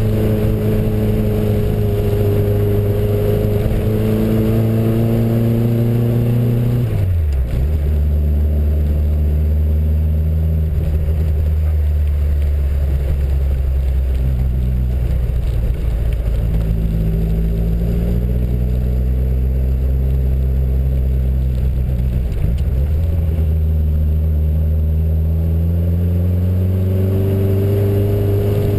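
Reliant Rialto three-wheeler's small four-cylinder engine heard from inside the cabin while driving. The engine note drops sharply about seven seconds in, runs steady and lower for a while, then climbs again in the last few seconds as the car speeds up.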